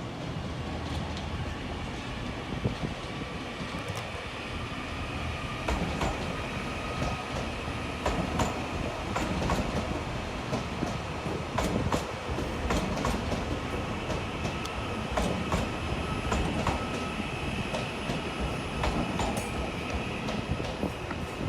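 A train moving slowly over the rails, its wheels clicking irregularly over rail joints and points from about six seconds in, with a thin, steady high wheel squeal over a low rumble.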